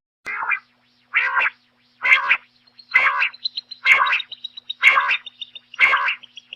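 Common quail calling: a harsh, rasping note repeated evenly about once a second, seven times.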